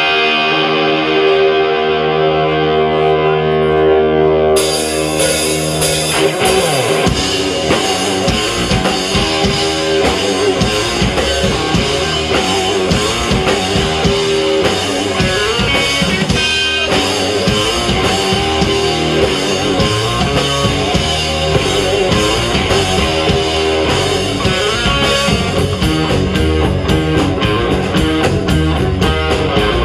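Live rock band playing: electric guitar opens on held, ringing chords, cymbals come in about four and a half seconds in, and the full drum kit and band kick in at about seven seconds with a steady beat.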